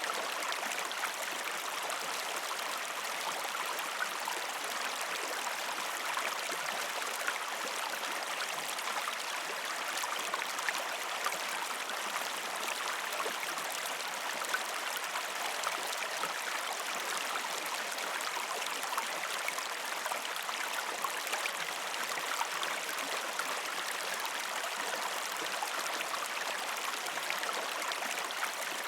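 A shallow river stream flowing over rocks: a steady rushing, babbling wash of water, sprinkled with small splashes.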